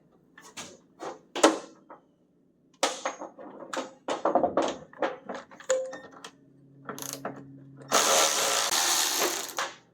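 A string of clinks and knocks from hand tools and metal parts. Near the end a handheld power tool runs for about two seconds, the loudest sound here.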